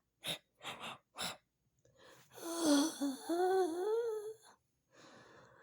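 A person's voice playing a hurt character: four short gasping breaths, then a wavering moan that slides up and down in pitch for about two seconds.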